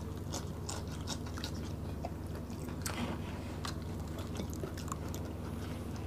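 Close-miked chewing and mouth sounds of people eating boiled vegetables and rice by hand: scattered soft wet clicks and smacks, over a steady low hum.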